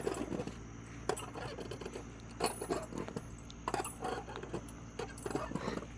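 Faint, irregular light metallic clinks and rattles, with soft traces of voices here and there.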